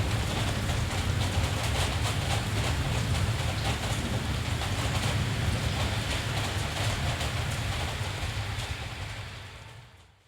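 Steady rain hiss over a continuous low rumble, fading away to near silence near the end.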